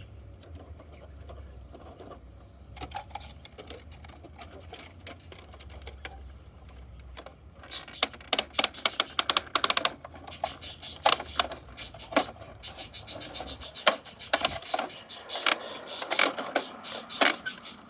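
Bruder plastic toy front-loader garbage truck being worked by hand: plastic parts clicking, rattling and tapping, sparse at first and much busier from about eight seconds in, over a low steady hum that stops near the end.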